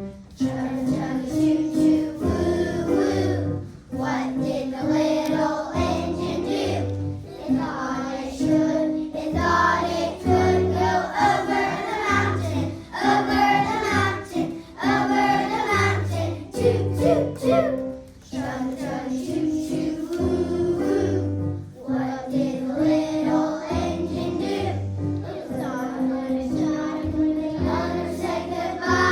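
A children's choir singing a song over an instrumental accompaniment with a repeating bass line.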